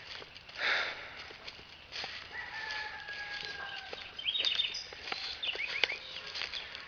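A rooster crowing once, a held, slightly falling call about two and a half seconds in. Small birds chirp a couple of seconds later, over scattered crackles and a brief rustle.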